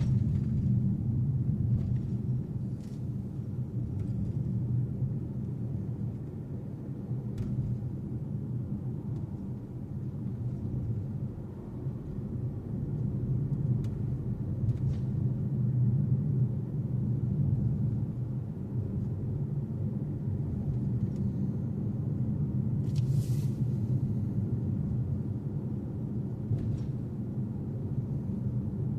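Steady engine and road drone of a car being driven, heard from inside the cabin, with a few faint clicks and one short hiss about two-thirds of the way through.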